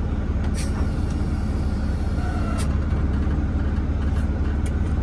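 Volvo semi truck's diesel engine idling with a steady low rumble, heard from inside the cab, with a few sharp clicks of cab fittings being handled.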